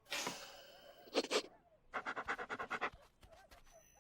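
A dog panting: a couple of breathy huffs, then a quick run of short, rapid pants.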